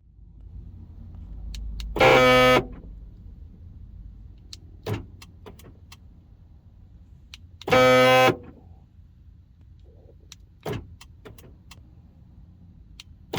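Faulty power door lock actuator of a Honda Stepwgn buzzing loudly as the doors are locked by remote, twice, each buzz about half a second long and cut off sharply, with a third starting at the very end; light clicks come between the buzzes. The noise is the sign of a failing actuator.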